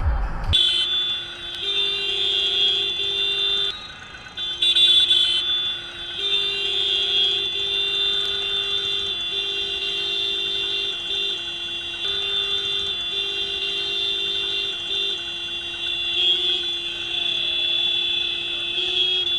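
A vehicle horn held down almost without letup: one steady, loud pitched blare that breaks off briefly about four seconds in and wavers slightly in pitch now and then.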